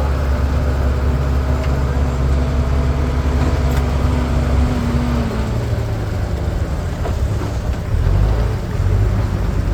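Tractor or backhoe loader engine running steadily, its note changing about five seconds in.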